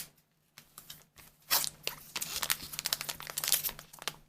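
Crinkly packaging being handled and crumpled: a few single crackles, then a dense run of crackling from about a second and a half in that stops just before the end.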